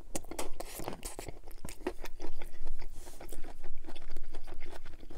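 Close-miked chewing of a mouthful of broccoli and beef, a steady run of wet, crunchy mouth clicks.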